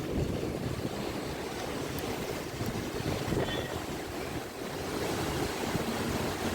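Rough monsoon sea: surf washing and breaking under strong wind, with wind buffeting the microphone in a continuous low rumble.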